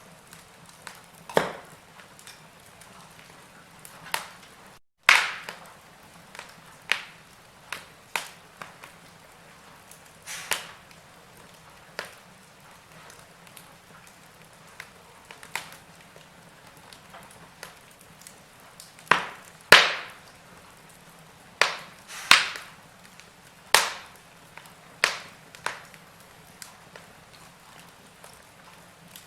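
Wood fire crackling, with irregular sharp pops and snaps over a low steady hiss. There is a split-second gap in the sound about five seconds in.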